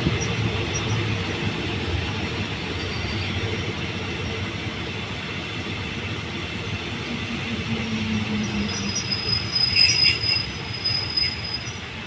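Passenger train rolling into a station, its wheels rumbling on the rails. Near the end come a high-pitched squeal and metallic clicks as it slows for the stop.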